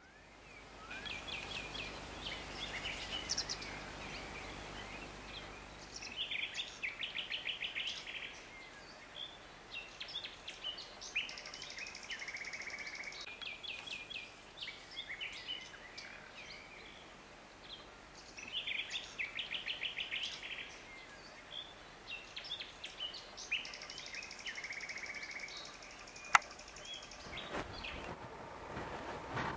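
Several songbirds singing in the open, with repeated trilled phrases and scattered chirps. A single sharp click about 26 seconds in.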